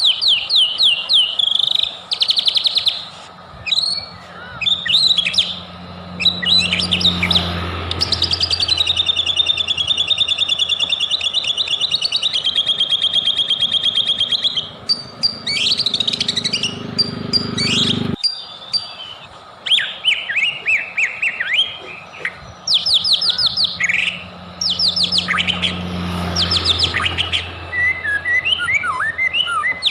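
White-rumped shama (murai batu) singing in varied bursts of rapid rattling and whistled phrases, including one long trill held for about six seconds. The song breaks off abruptly about 18 seconds in, then resumes.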